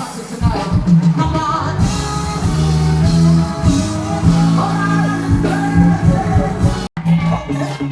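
Live pop music performance: a band with a heavy bass line kicking in about half a second in, with singing over it. The sound drops out completely for a moment near the end.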